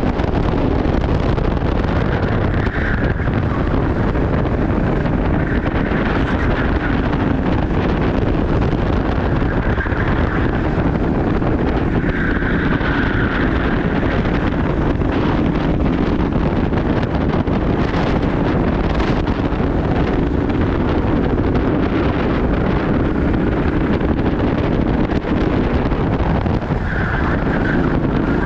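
Steady wind noise buffeting the microphone, a constant low rumble.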